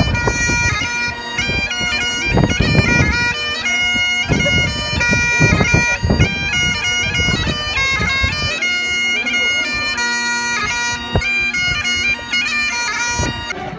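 Bagpipes playing a tune over their steady drones, with gusts of wind buffeting the microphone.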